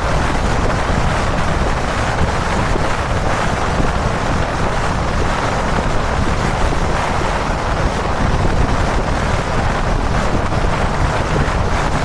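Steady, loud wind rush over the camera microphone of a motorcycle ridden at expressway speed, covering the Dominar 400's engine and the road noise.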